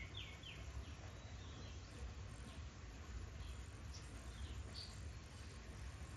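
Faint background birdsong: a quick run of three short down-slurred chirps at the start, then a few scattered high chirps about four and five seconds in, over a steady low rumble.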